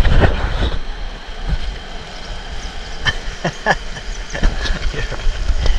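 River rapids rushing and splashing close to the microphone, with a heavy low rumble and a string of sharp knocks and clatters, the loudest about at the start.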